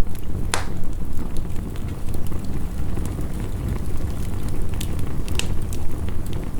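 Wood fire crackling with scattered sharp pops, a loud one about half a second in and two more near the end, over a steady low rush of heavy rain.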